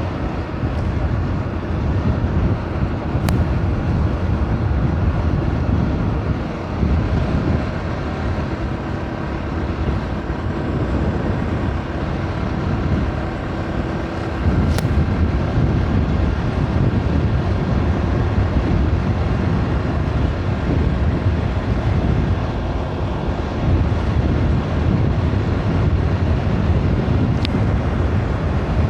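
Bajaj Pulsar 200 NS single-cylinder engine running at road speed with wind rushing over the microphone while riding, getting louder about halfway through. Three faint, very short clicks are scattered through it.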